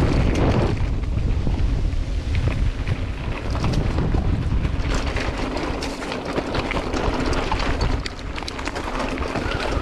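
Strong wind buffeting the microphone with a steady low rumble, with scattered short clicks and rattles through it.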